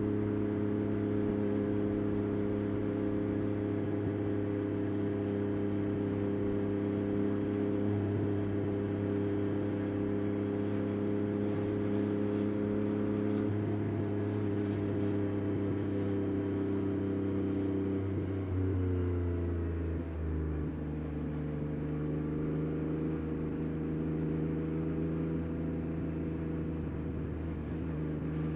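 Yamaha Tracer 9 GT+'s CP3 inline-three engine through a Roadsitalia titanium exhaust, running at steady revs on the move. About two-thirds of the way in the revs fall and settle lower, then start to climb again near the end.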